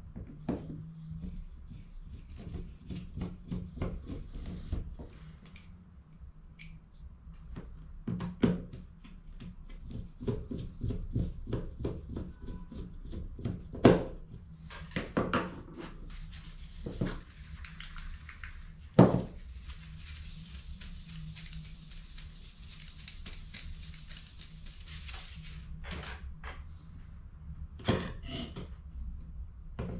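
Hard plastic and metal parts of HP CE285A toner cartridges being handled: rapid clicks and clattering, with several sharper knocks. A steady hiss lasts about five seconds midway, and a low hum runs underneath.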